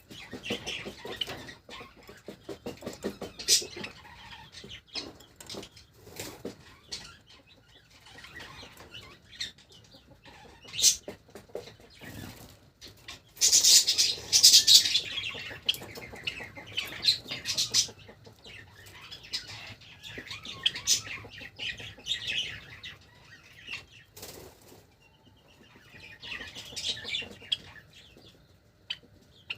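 Java sparrows fluttering their wings, with a louder burst of flapping about halfway through, among short clucking chirps and clicks.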